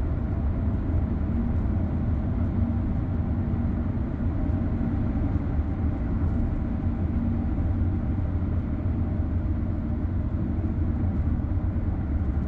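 Car driving at a steady pace: a constant low rumble of engine and road noise with no change in speed.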